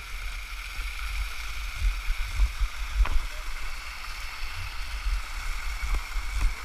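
Steady rush of a small waterfall, with irregular low buffeting on the microphone.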